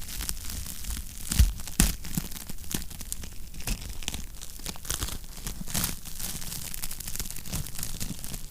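Wood fire crackling in a fireplace: irregular snaps and pops over a low steady rumble, with two sharp pops close together about a second and a half in.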